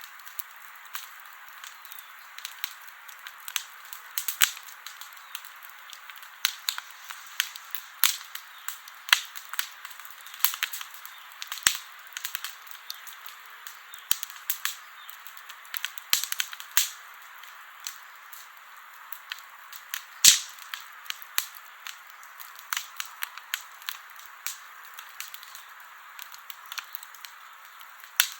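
Campfire crackling: frequent, irregular sharp pops and snaps over a steady hiss, with a few pops much louder than the rest.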